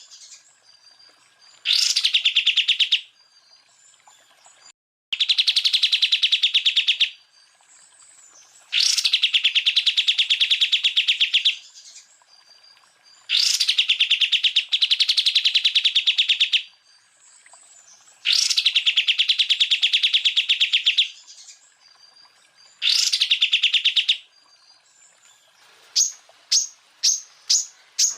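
Cucak ijo (green leafbird) song: six bursts of rapid repeated notes (the 'tembakan' shots), each one to three seconds long, with short pauses between them. Near the end come six short, sharp, separate notes.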